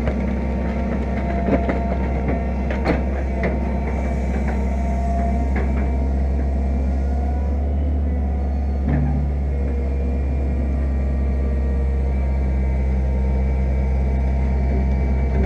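Fiat-Hitachi EX165 crawler excavator's diesel engine running steadily while digging, with a few sharp knocks and clanks near the start and one more about nine seconds in.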